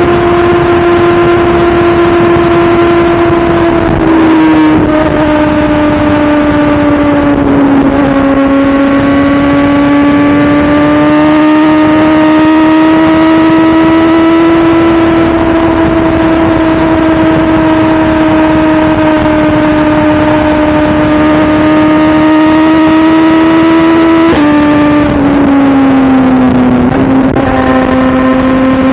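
2017 BMW S1000RR's inline-four engine at a high, steady pitch under way, with wind rushing past. The pitch steps down twice early on and twice near the end as it changes gear, and creeps slowly up in between.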